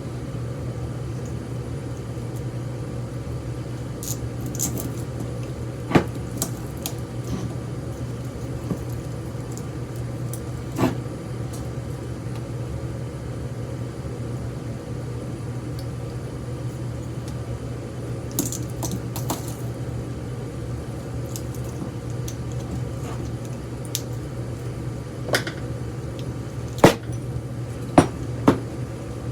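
Scattered clicks, clinks and knocks of hand tools and metal parts as a ceiling fan motor is taken apart for its copper windings, with the sharpest knocks near the end. A steady low hum runs underneath.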